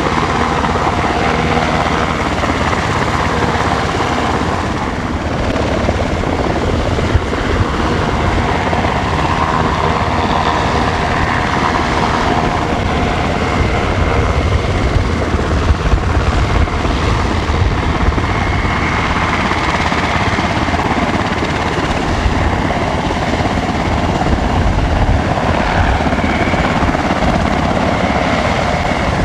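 SH-60K Seahawk helicopter running close by: a steady, loud rotor beat under the whine of its twin turboshaft engines.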